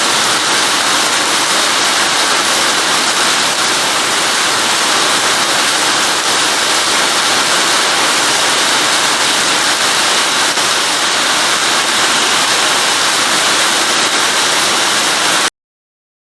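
Heavy rain falling steadily, a dense even hiss of drops, which cuts off abruptly near the end.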